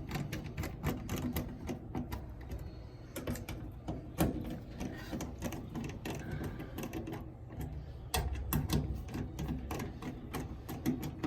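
Rapid, irregular clicking and knocking of hand tools and metal parts being handled during reassembly of a dryer.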